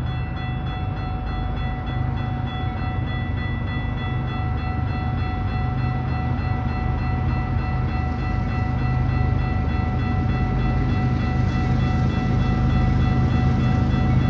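Diesel train approaching, its low engine rumble growing steadily louder, with a steady high whine held over it.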